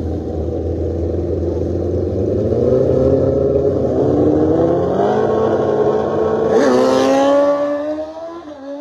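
Drag-racing engines launching and accelerating hard down the strip, their pitch climbing in steps through several gear changes, then fading away near the end.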